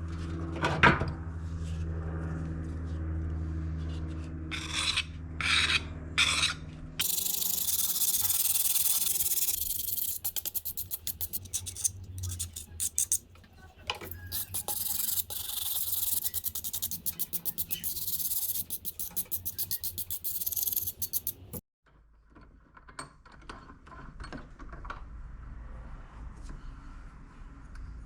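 Quick, repeated rasping strokes of hand abrading work, as in filing or sanding a part of an old hand drill being restored, going on for about fourteen seconds. Before them there is a steady low hum with a few short scrapes. After a sudden cut there are quieter scattered ticks and scrapes.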